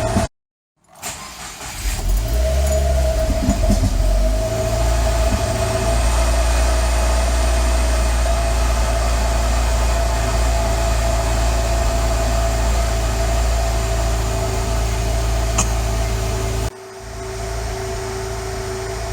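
2015 Subaru WRX's turbocharged flat-four, fitted with a catless J-pipe, starting cold: after a moment of silence it catches and its pitch shifts for a few seconds before settling into a steady, rough cold idle. The uploader later traced the rough cold idle to the stratified fueling mode. Near the end the sound drops noticeably quieter.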